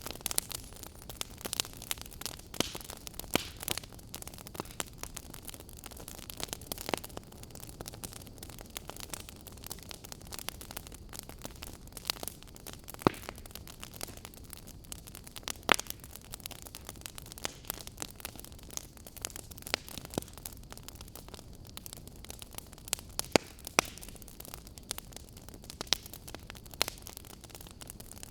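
Fire crackling: irregular sharp pops and snaps, a few much louder than the rest, over a steady low hiss.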